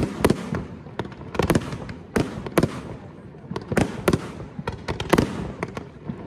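Aerial fireworks bursting: about a dozen sharp bangs over six seconds, irregularly spaced and some in quick pairs, each followed by a rolling echo.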